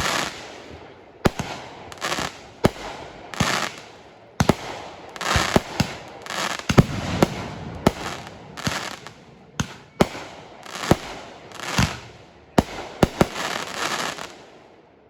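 Fireworks going off in quick succession: about twenty sharp bangs at irregular intervals, each trailing off in a rumbling echo, stopping shortly before the end.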